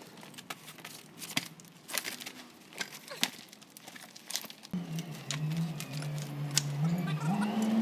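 Scattered clicks and taps, then about two-thirds of the way in a vehicle engine comes on and runs steadily, its pitch stepping up a little near the end.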